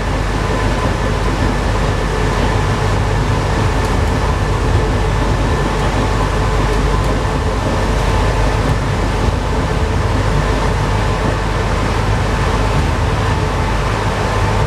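Alstom NS-93 rubber-tyred metro train running at steady speed, a continuous loud rumble with faint steady whining tones over it.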